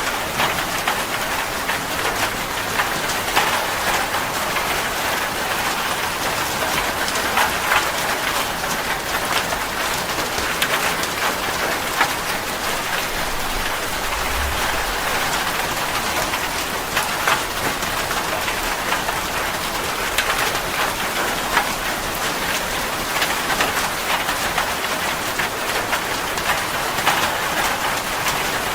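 Steady rain falling on a hard surface, an even hiss with single louder drop impacts striking now and then.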